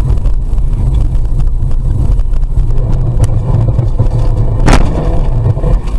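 Car driving, heard through a dashcam: a loud, steady low rumble of road and engine noise, with a few sharp knocks, the loudest near the end.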